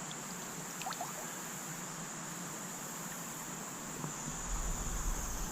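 Steady high-pitched drone of insects such as crickets, with a low rumble joining about four seconds in.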